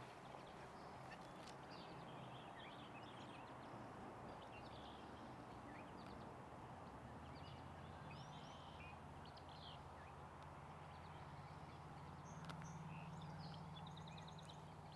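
Faint songbird chirps and short calls from several birds, scattered throughout, over a low steady hum that grows a little louder near the end.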